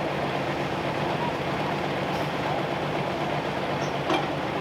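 Pulling tractor's engine running steadily after spinning out on the track, with a steady low drone. A short sharp knock sounds near the end.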